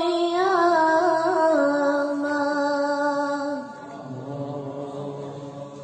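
A young girl's voice chanting Quranic recitation in melodic tajwid style, drawing out the words in long held notes with a wavering ornament. The pitch steps down twice and the voice grows quieter over the last couple of seconds.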